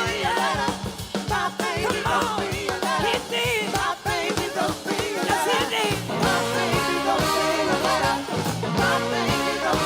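Live soul-rock band playing an instrumental passage, drums keeping a steady beat under a wavering lead line. About six seconds in, the band moves to long held chords.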